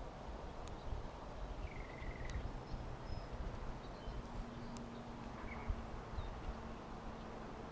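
Small songbirds giving a few short chirps and calls at a backyard feeder, over steady low wind rumble on the microphone, with a few sharp clicks. A faint steady low hum joins about four seconds in.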